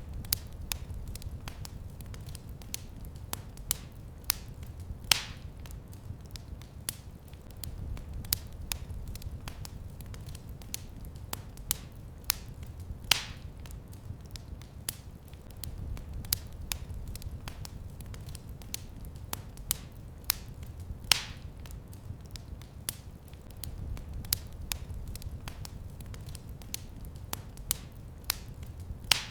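Wood fire crackling in a fireplace: a steady run of small sharp pops over a low rumble, with a louder snap about every eight seconds.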